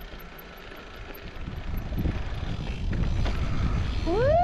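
Mountain bike riding on a dirt trail, with wind rumbling on the microphone, getting louder from about two seconds in as the bike picks up speed. Near the end the rider gives a whoop that rises and then falls in pitch.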